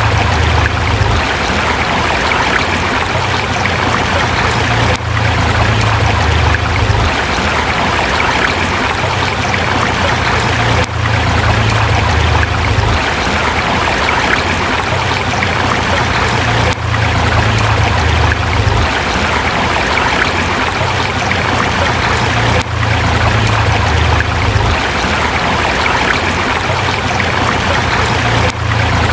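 A forest river rushing steadily over rocks, with a low rumble that swells and fades every few seconds and a brief dip in loudness about every six seconds.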